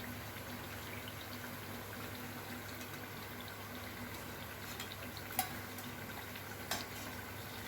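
Yam vadas frying in hot oil, a steady sizzle, with two short sharp clicks in the second half.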